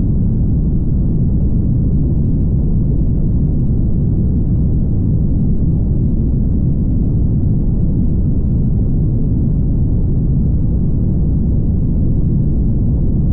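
Steady low rumble of a car driving on a highway: tyre and wind noise with no changes or separate events.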